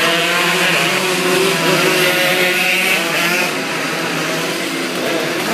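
Motorcycle engines running hard during a race, several overlapping engine notes rising and falling in pitch as they rev. The sound eases slightly about three and a half seconds in.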